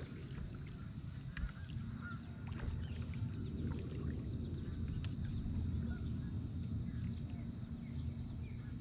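Birds honking now and then over a low, steady hum.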